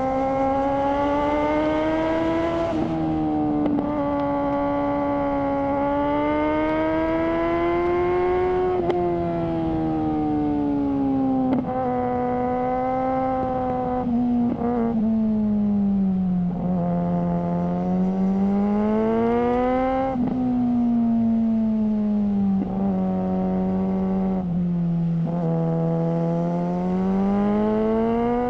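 Suzuki GSR600's inline-four engine running through a GPR Ghost aftermarket exhaust, under way. The engine note rises and falls in long sweeps, with several brief breaks in the note.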